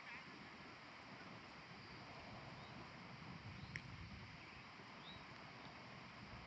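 Near silence: faint outdoor ambience with a steady low background hiss and an even, high, faint pulsing throughout. There is one faint click a little under four seconds in.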